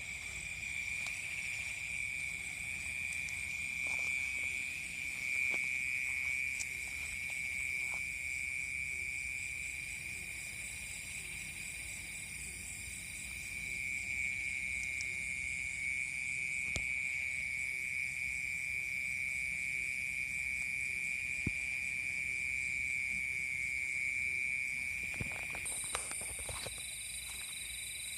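Night chorus of frogs and insects in a rice paddy: a steady high-pitched trill that goes on without a break, with a few faint clicks.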